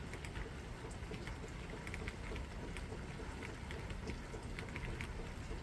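Light rain falling, a steady hiss with scattered small drop ticks.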